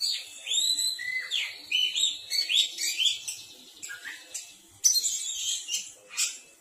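Oriental magpie-robin (kacer) singing a fast, varied song of clear whistled notes and slurred up-and-down glides, with two louder, harsher notes near the end.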